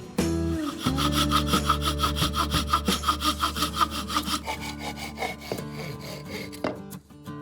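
Fast, regular back-and-forth rasping strokes, about five a second, for around three seconds. They then give way to slower, quieter scraping near the end.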